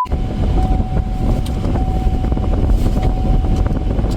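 Road noise inside a moving car's cabin: a steady low rumble of tyres and wind, with a faint thin whine coming and going through most of it.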